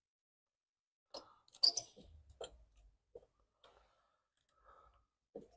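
Faint, scattered clicks and light scrapes of small metal parts being handled as a carburetor is worked loose from a small mower engine.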